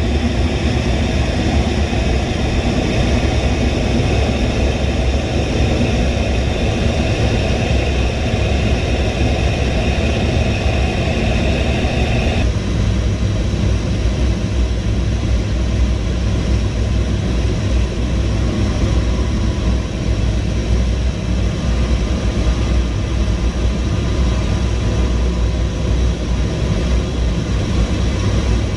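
Loud, steady engine noise, a deep rumble with a faint higher whine that changes abruptly about twelve seconds in.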